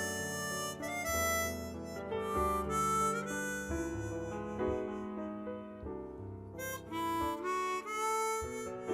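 Trumpet playing a melody of held notes over a backing track with low bass notes.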